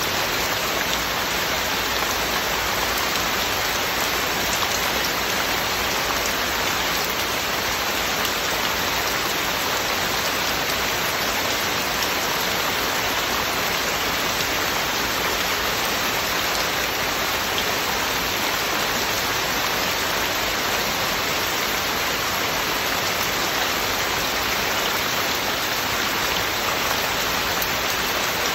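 Heavy rain falling steadily: a dense, even hiss of rain with no breaks or swells.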